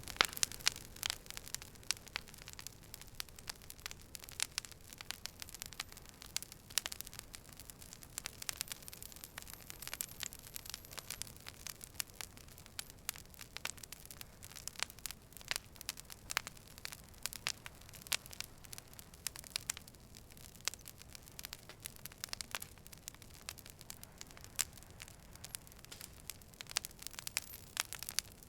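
Campfire crackling: wood burning with many irregular sharp pops and snaps over a soft hiss.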